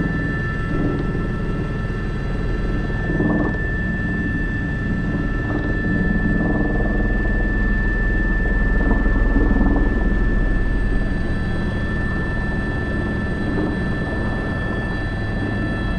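Airbus H125 (AS350 B3) helicopter in flight, heard from on board: steady turbine whine as high tones over the low drone of the rotor, swelling slightly about halfway through.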